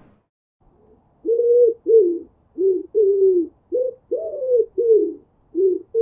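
A bird calling: a run of about nine short, low hooting notes with brief gaps between them, each rising slightly and falling away, starting about a second in.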